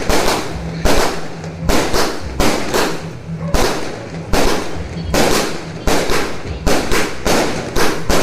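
New Year's Eve firecrackers and fireworks going off all around, irregular sharp bangs about two a second, each with an echoing tail.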